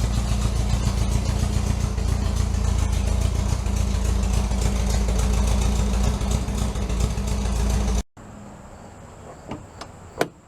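An engine running steadily, then cutting off abruptly about eight seconds in, leaving a quiet background with a few light clicks.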